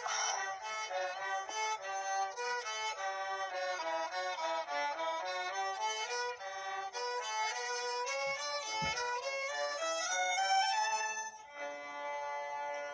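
Violin music: a quick, flowing melody of many short notes, settling into a long held note near the end.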